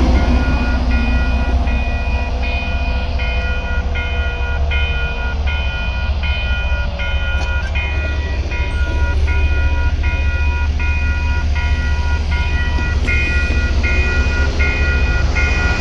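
Grade crossing warning bells ringing in a steady repeating clang, about one strike every three-quarters of a second, over the low rumble of a commuter rail train. The bells stop near the end.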